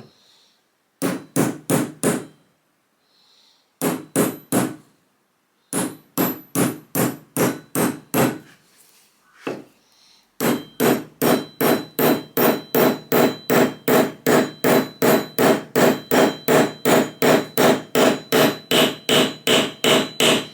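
Hammer blows on metal, first in a few short bunches of three to five strikes, then from about halfway a steady run of about three strikes a second with a faint metallic ring.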